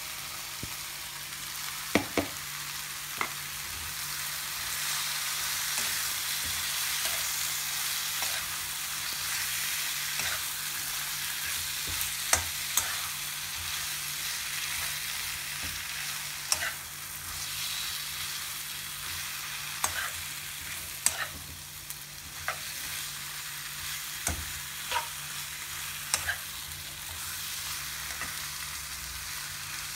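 Chicken tikka pieces and mushrooms sizzling as they stir-fry in a wok, with a steady frying hiss. A fork stirring them clicks and scrapes against the pan every few seconds.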